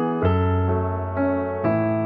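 Background piano music: single notes and chords struck about every half second over a held bass note.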